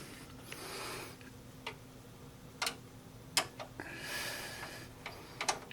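A handful of sharp, separate clicks and taps of small hard parts being handled on a PC case during a graphics card install, with two stretches of soft hiss between them.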